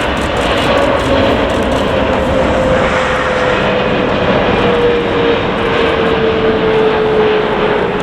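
Jet airliner's engines: a loud, steady roar with one tone slowly falling in pitch.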